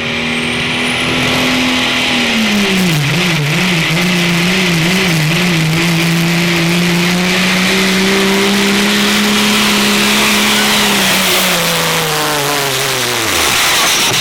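Diesel pulling truck at full throttle on a pull. The engine pitch drops and wavers about three seconds in, holds steady, then falls away near the end as the engine winds down, with a steady hiss over it.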